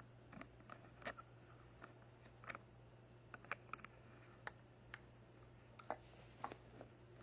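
Faint, irregular light clicks and taps of plastic toy parts being handled and fitted together, about fifteen in all, while the toy ramp is assembled.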